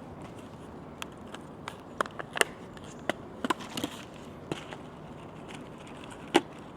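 Irregular light knocks and clicks of things being handled during food preparation, with a sharper knock near the end.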